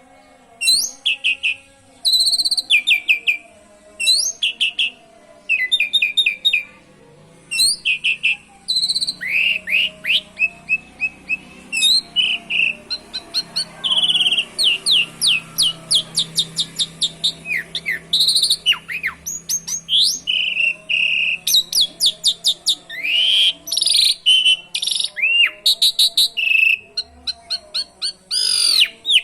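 Asian pied starling (jalak suren) singing vigorously, with rapid chirps, whistled sweeps and canary-like trills worked into its song. Short phrases with brief pauses at first, then almost unbroken song from about eight seconds in.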